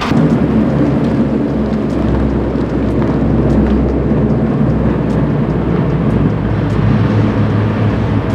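2014 Ford Mustang GT's 5.0-litre V8 running at low speed, a steady deep rumble that starts suddenly and holds an even pitch.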